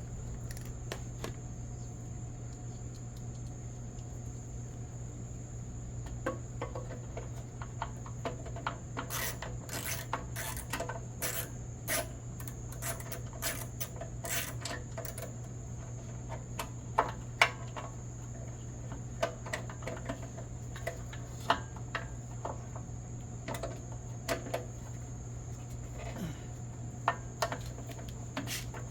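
Scattered clicks and metallic clinks of tools and small metal parts being handled, busiest in the first half with a few louder knocks after the middle, over a steady low hum.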